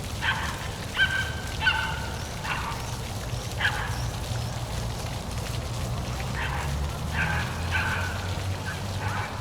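Birds giving short repeated calls, several in quick succession in the first four seconds and more near the end, over a steady rush of falling water.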